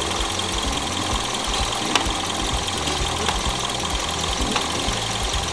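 Toyota car engine idling steadily under the open hood, with a few faint clicks spaced about a second and a half apart.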